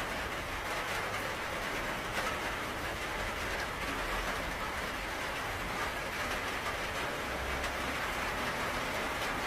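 Steady heavy rain: an even hiss with scattered drop ticks and a low rumble underneath.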